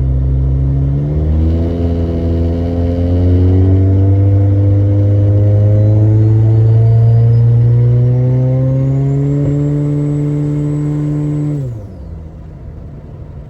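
Turbocharged engine of a 1995 Nissan 240SX pulling hard on part throttle with a little boost, its pitch climbing steadily. A thin high whine rises alongside the engine partway through. Near the end the throttle is lifted: the engine pitch drops quickly and it goes quieter.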